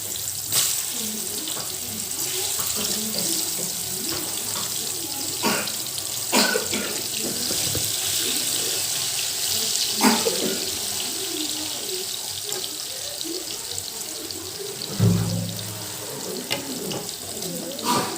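Water running from a tap into a sink, a steady hiss, with a few sharp knocks and clatters of things being handled in it.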